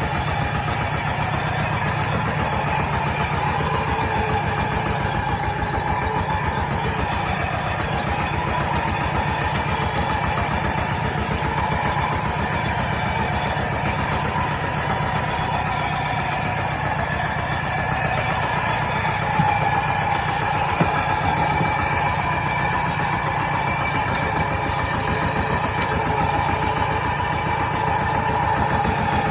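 Kubota tractor's diesel engine running steadily at an even speed, with a couple of faint clicks about two-thirds of the way through.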